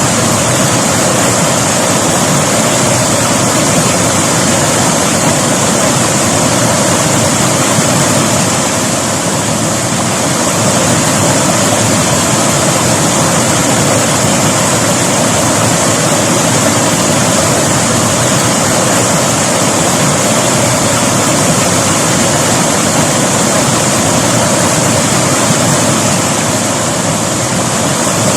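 River water rushing over rocks in a loud, steady, unbroken wash.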